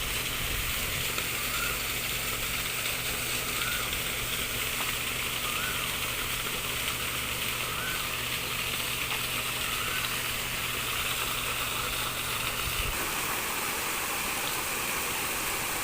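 Steady rush of water pouring down an artificial garden waterfall, with a low hum under it that stops about thirteen seconds in.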